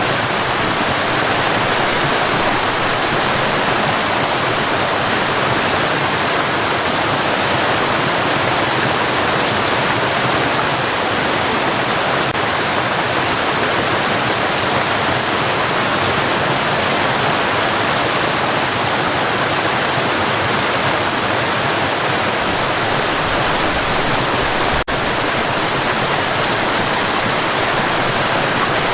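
Steady white noise, a constant even hiss like rushing water, with one momentary dip in level about 25 seconds in.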